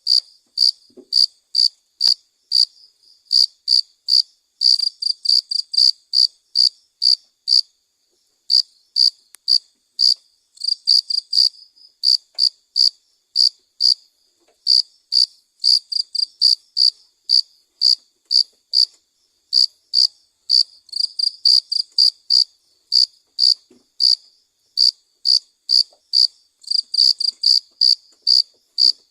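Cricket chirping, short shrill chirps about two to three a second, some in quick runs, with a brief pause near the middle.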